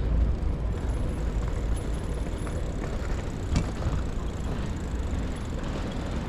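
City street traffic noise heard while riding a bicycle, a steady low rumble with one sharp click about three and a half seconds in.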